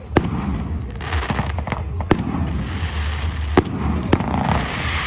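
Fireworks going off: several sharp bangs a second or so apart over continuous crackling and a steady low rumble.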